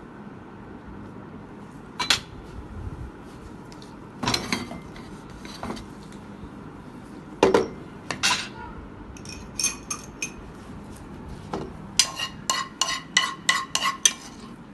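Metal kitchen utensils clinking and scraping against plates and a pan as food is plated. Separate clinks come every second or two, then a quick run of about eight ringing taps near the end.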